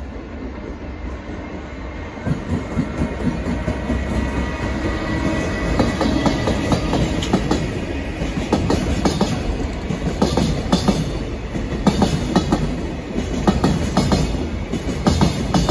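Container freight train hauled by a JR Freight EF210 electric locomotive passing at speed, growing louder over the first few seconds, then a rumble with the wagon wheels clattering over the rail joints in quick repeated knocks.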